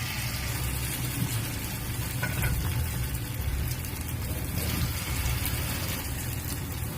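Hot oil sizzling steadily as corn fritters (bala-bala jagung) deep-fry, a continuous hiss with faint crackles over a low hum.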